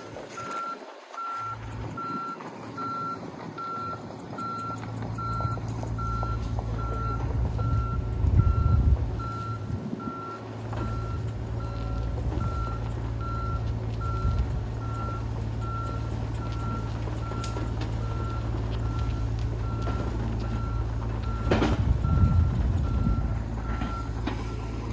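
Steady run of evenly spaced electronic warning beeps over the diesel engine of a horizontal directional drilling rig running under load as it pulls snapped drill rod back out of the bore. The engine comes in about a second and a half in and surges louder about eight seconds in and again near the end.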